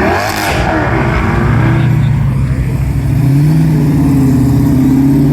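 Car engine running hard as the car drives off, its pitch stepping up about three seconds in as it revs higher. A short hissy burst of noise comes right at the start.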